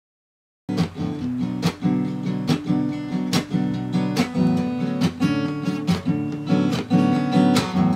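Acoustic guitar strummed in a steady rhythm, starting abruptly under a second in after silence, with strong strokes a little under once a second and lighter strokes between.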